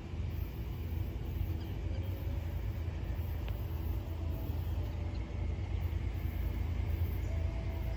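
Low, steady rumble of an approaching diesel-hauled freight train, growing slowly louder.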